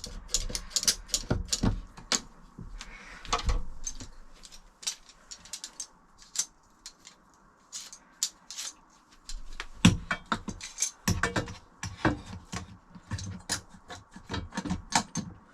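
Two metal G-clamps being fitted and screwed tight onto timber, with irregular metallic clicks and rattles that thin out for a few seconds in the middle.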